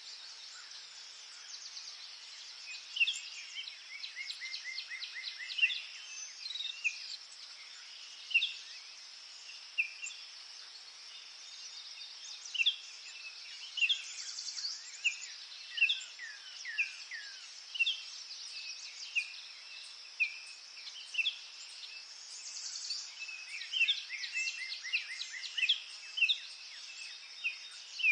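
Forest ambience: several small birds singing and calling, with short whistled notes and quick trills over a steady high hiss of insects.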